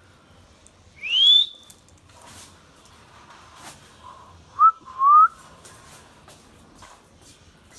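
Indian ringneck parrot whistling: one loud rising whistle about a second in, then two shorter, lower rising whistles in quick succession a few seconds later.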